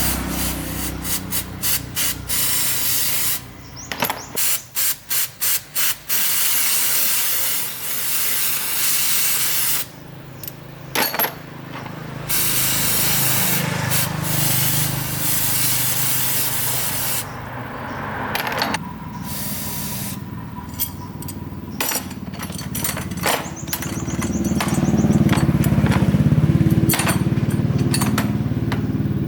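A spray hissing hard in repeated on-off bursts, some long and some short and rapid, which then gives way to a steady low machine hum with occasional clicks.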